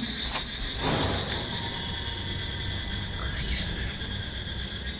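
Night insects such as crickets trilling steadily, with a higher chirp pulsing about three times a second, and a brief rustle about a second in.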